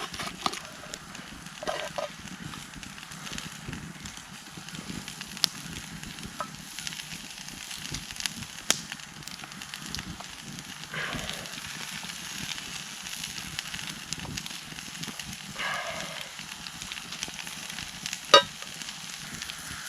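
Campfire crackling and hissing steadily, with scattered small pops. A single sharp click sounds near the end.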